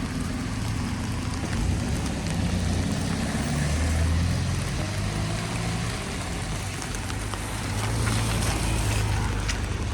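A motor vehicle's engine running close by, its low rumble rising and falling twice, over a steady hiss.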